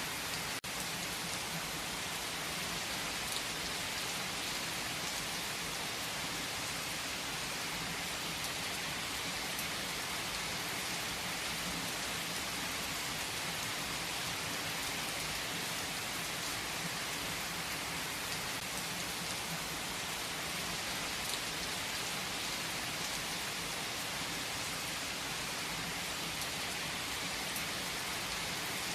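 Steady rain falling, an even hiss of many drops with no change in strength, broken only by a momentary dip about half a second in.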